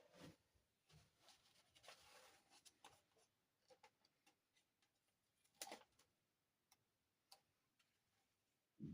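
Faint clicks and taps of small plastic dollhouse furniture pieces being handled, with a soft rustle about two seconds in and the sharpest click a little past halfway.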